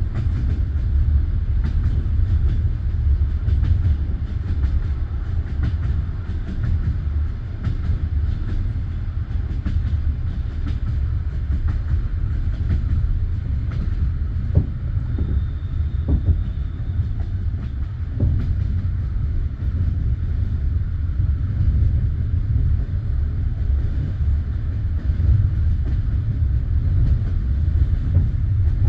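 Passenger train's wheels running on the rails, heard from inside the carriage: a steady low rumble with scattered clicks and knocks of the wheels over the track.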